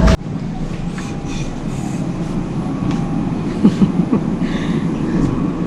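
Steady rumble of a Chicago 'L' train car in motion, heard from inside the car, with a few faint clicks in the middle. A sharp cut right at the start ends the preceding onboard announcement.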